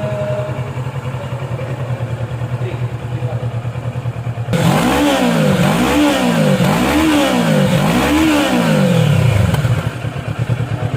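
Kawasaki Versys 650 parallel-twin idling through its stock exhaust, then revved four times in quick succession, about one blip a second, before settling back to idle.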